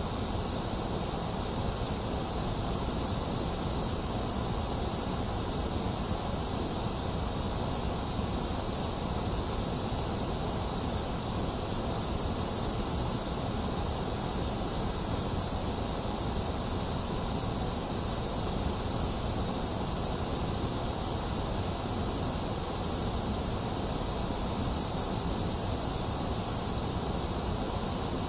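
Box fan running together with steady rain: a constant, unchanging noise with a strong hiss in the highs.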